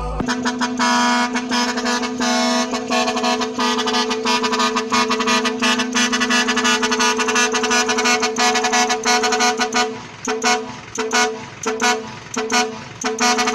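Truck horn held on one steady pitch for about ten seconds, then sounded in a quick run of short toots near the end.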